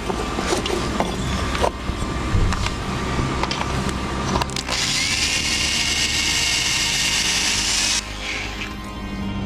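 Small high-speed power tool with a grinding bit cutting into the engine's cylinder head to elongate the pushrod holes. It works in short stints at first, then from about five seconds in runs continuously with a steady high whine that stops abruptly about three seconds later.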